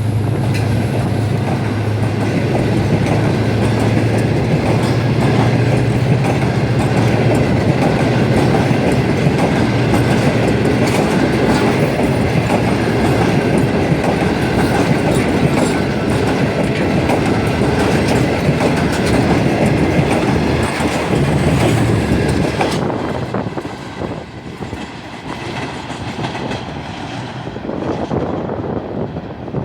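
Passenger train rolling past, its wheels clacking over the rail joints over a steady low hum. About 22 seconds in the noise drops sharply as the end of the train goes by, leaving a fainter rumble.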